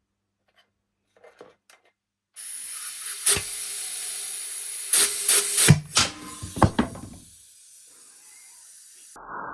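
Compressed-air blow gun hissing in one steady blast of about seven seconds, starting suddenly after a few faint clicks, with several knocks and clatters during it. It cuts off sharply, and a lower rushing sound begins right at the end.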